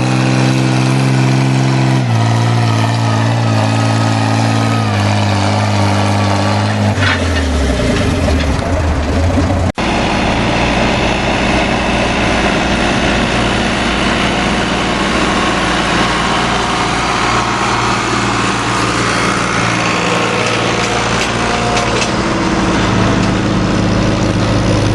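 Antique tractor engine running at a steady pitch, stepping down slightly about two seconds in, then slowing with a falling pitch around seven seconds in. After a brief break, engine running again with a rougher, noisier sound.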